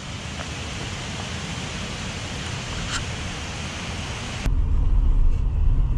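Steady rush of fast-flowing, rain-swollen water. About four and a half seconds in it cuts off abruptly, giving way to the low rumble of a van driving, heard from inside the cabin.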